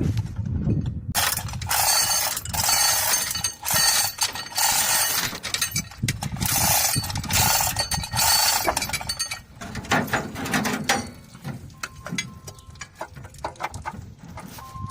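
Engine hoist lifting an engine out of a truck: a dense run of rapid metallic ratcheting and chain clanking for several seconds, thinning out to scattered clanks near the end.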